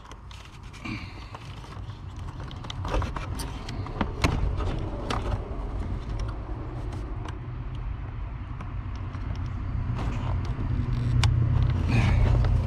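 Fingers working a small bulb socket into the back of a gauge cluster: scattered small clicks and plastic knocks, over a low rumble that grows louder near the end.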